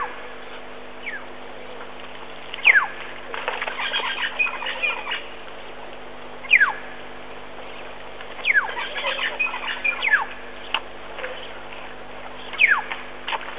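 Birds calling: a clear whistle sliding downward, repeated every three to four seconds, with bursts of chattering calls in between.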